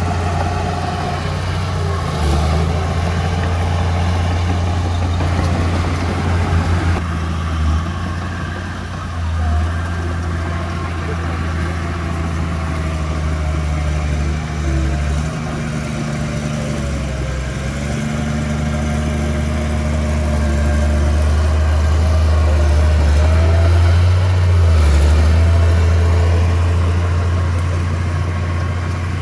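Diesel engine of earthmoving machinery running steadily, with a deep, continuous hum and faint wavering higher whines over it. It grows a little louder about three-quarters of the way through.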